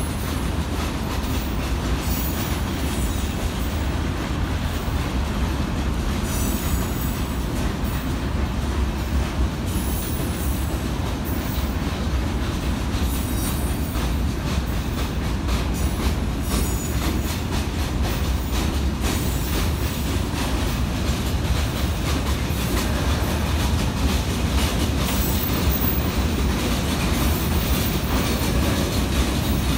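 Freight wagons, empty timber flat wagons among them, rolling steadily over a railway overpass: a continuous low rumble of wheels on rail, with wheel clicks over the rail joints and a high wheel squeal now and then.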